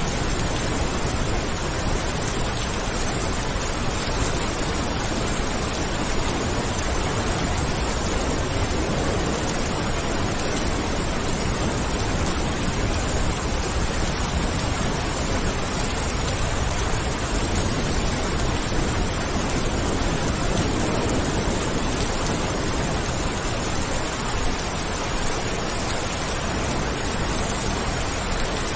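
Steady heavy rain, a dense even hiss with no distinct drops or thunderclaps.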